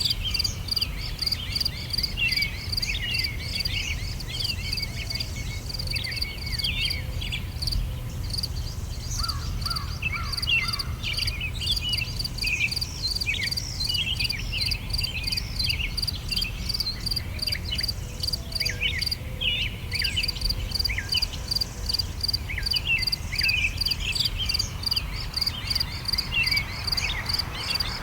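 Songbirds singing in many short, quick phrases over a fast, even insect chirring, with a steady low rumble underneath.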